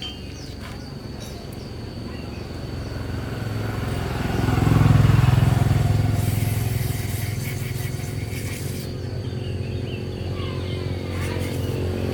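Motorcycle engine running, growing louder to a peak about five seconds in and then easing off.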